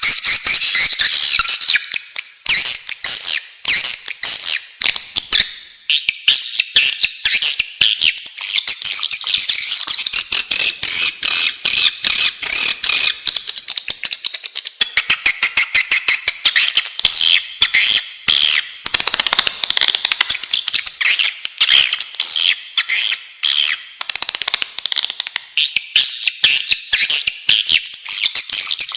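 Swiftlets calling: a dense, unbroken stream of rapid, high-pitched clicking twitters from many birds at once. It is a swiftlet call recording of the kind played to draw swiftlets in to nest.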